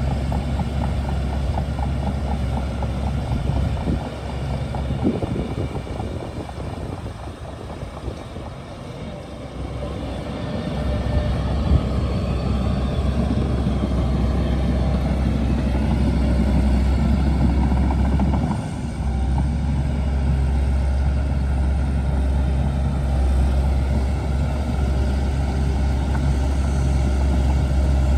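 Shantui DH17C2 bulldozer's diesel engine working under load with a steady low drone. It eases off to a quieter, lower note for several seconds early on, then comes back up to full power and holds steady.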